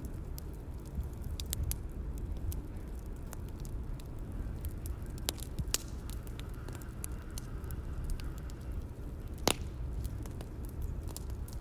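Bonfire ambience: a steady low rumble of burning wood with frequent small crackles and pops, and one louder pop about two-thirds of the way through.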